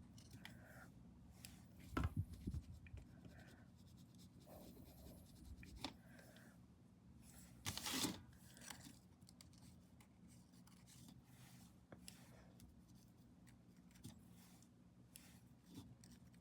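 Faint scratching and tapping of painting tools on paper, with a louder scrape about eight seconds in.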